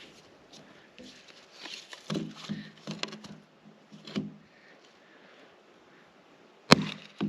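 Dry wood being broken by hand: scattered creaks and snaps, then two sharp cracks near the end.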